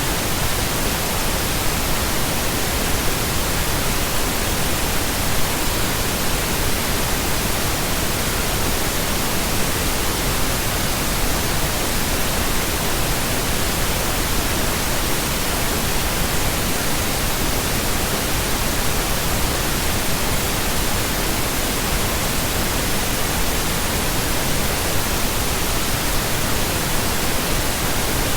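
Steady, continuous pink noise: an even, unchanging hiss spread across all pitches, with no breaks or other sounds.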